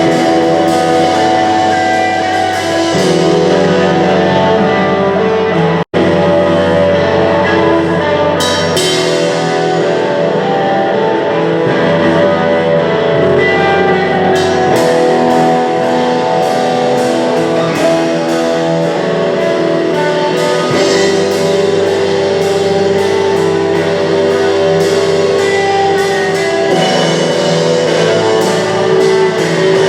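Punk rock band playing live: electric guitars with bass and a drum kit, the cymbals struck in a steady beat. The sound cuts out for an instant about six seconds in.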